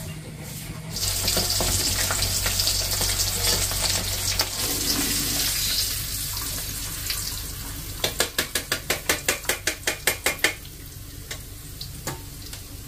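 Food frying in oil in a wok over a gas flame, a loud sizzle that starts about a second in and fades after a few seconds. Later a quick even run of metal spatula strokes against the wok, about six a second, lasts for a couple of seconds.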